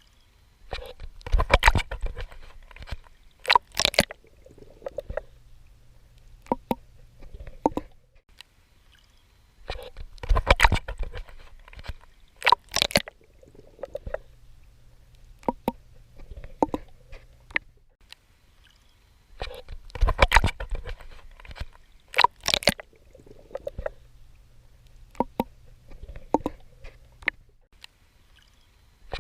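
Water splashing and sloshing as someone swims: pairs of loud splashy strokes about two seconds apart, then smaller sloshes, the cycle repeating about every ten seconds.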